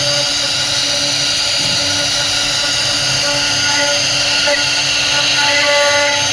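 CNC router spindle running steadily with a high whine as the bit carves wood, with short shifting tones as the cut changes.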